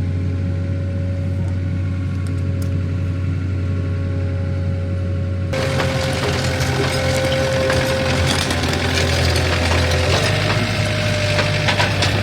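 An engine running steadily on a fork-equipped loader. About five seconds in, a loud rough scraping and crackling of wood joins it as a large log is moved on the forks. The engine note drops slightly near the end.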